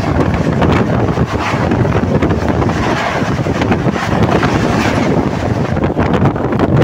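Loud, steady rushing noise of a train running at speed, with wind buffeting the microphone.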